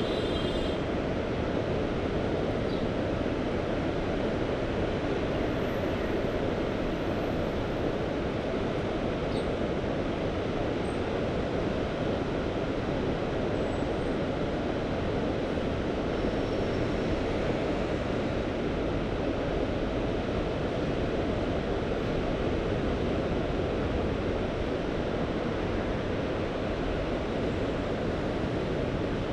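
Sea waves washing on the shore, a steady even rush with no distinct breaks, mixed with wind.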